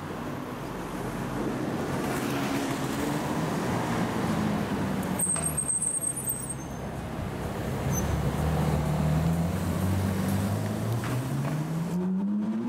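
Ferrari 458 Italia's V8 engine running at low speed in traffic, its pitch rising over the last couple of seconds as it accelerates away.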